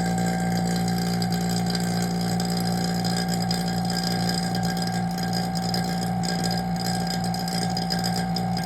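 Vacuum pump running with a steady hum and a fast, even low throb, pulling a vacuum on a sealed chamber.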